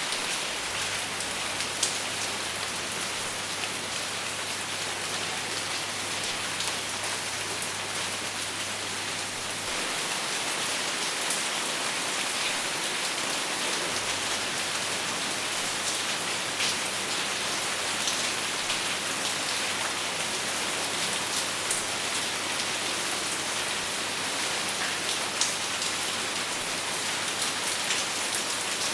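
Steady rain falling without thunder, a dense even hiss with many close drops ticking sharply through it. It grows slightly louder about ten seconds in.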